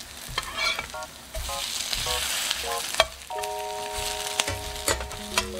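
Small cabbage pancakes (baechu-jeon) sizzling in oil in a frying pan, with sharp clicks as a metal fork and a slotted spatula knock against the pan while turning them. Short pitched notes sound in the first few seconds, then a steady held chord from about halfway through.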